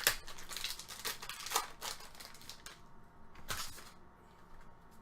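Trading cards and foil pack wrappers being handled: a run of short rustling, crinkling scrapes, a last one at about three and a half seconds, then quieter.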